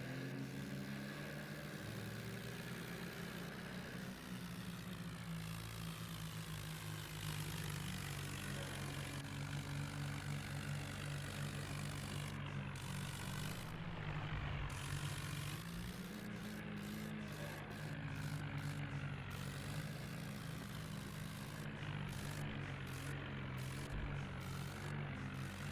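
Tractor engine running steadily, its pitch dipping and recovering briefly twice, about four seconds in and around the middle.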